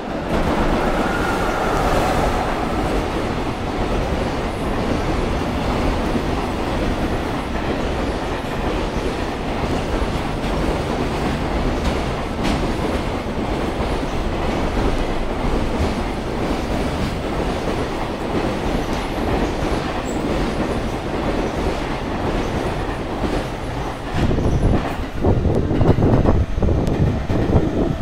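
Freight train hauled by an EF66 electric locomotive passing close by. It rises sharply as the locomotive arrives with a brief whine, then settles into a long steady rumble of container wagons with repeated clacking of wheels over rail joints. In the last few seconds the sound turns louder and more uneven, with heavy low knocks.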